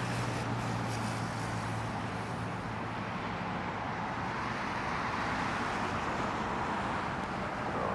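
Steady outdoor engine rumble with a low hum that fades out a few seconds in.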